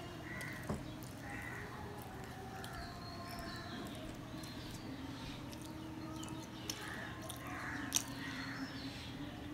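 A man chewing mouthfuls of luchi (fried puffed bread) with potato curry, with birds calling repeatedly in the background. A couple of sharp clicks come through, the loudest near the end.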